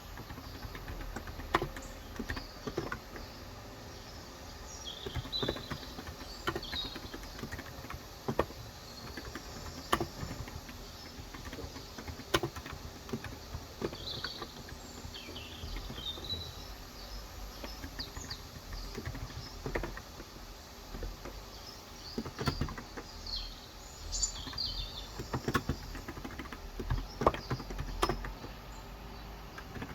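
Irregular keystrokes on a Cox Endeavor electro-capacitive (35 g) tenkeyless keyboard, sparse and in short clusters, with birds chirping in the background.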